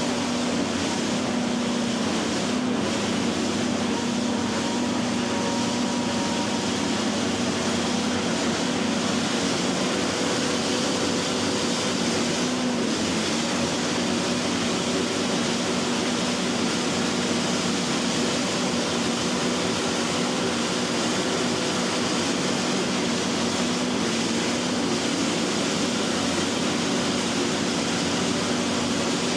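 Silage-harvesting machinery running steadily: a constant drone of engines and rotating machinery, with a steady hum and no sudden changes.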